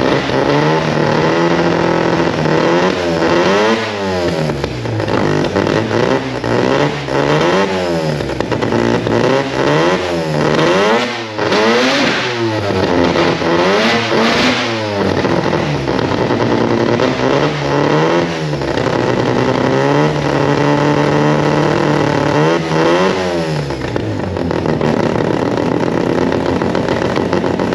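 Mazda RX4's 13B rotary engine running and being revved up and down over and over, a blip every second or two, then holding steadier near the end. It runs rough, which the owner puts down to low voltage (about 11 volts) reaching the old Haltech ignition because of alternator trouble.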